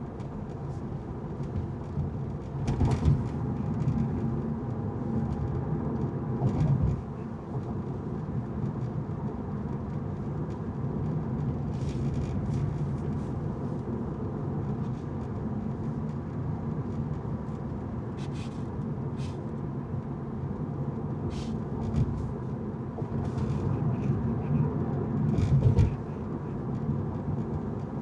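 Car driving on city streets: steady low engine and road rumble, with a few louder thumps and scattered brief clicks.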